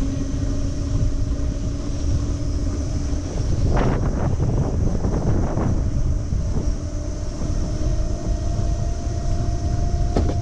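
Wind rushing over the microphone while riding an electric moped, with the steady whine of its electric motor underneath. A louder ragged rush of noise comes in about four seconds in and lasts a couple of seconds.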